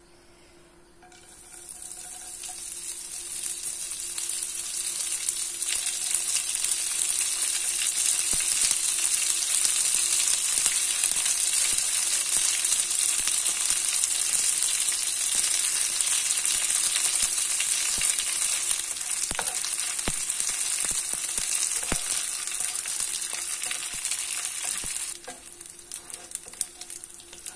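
Dried anchovies (ikan bilis) sizzling as they fry in hot oil in a wok. The sizzle starts about a second in as they go into the oil, builds over the first several seconds to a steady loud hiss, and eases to a quieter crackle near the end as they turn golden brown. A few light clicks come from stirring, and a faint steady hum runs underneath.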